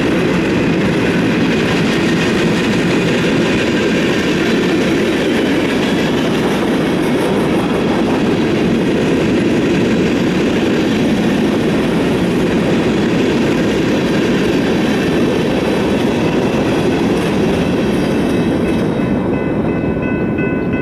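Freight train of covered hopper cars rolling past, a steady loud rumble and rattle of steel wheels on rail that thins out near the end as the last cars go by. A few faint, steady high tones stand out as it fades.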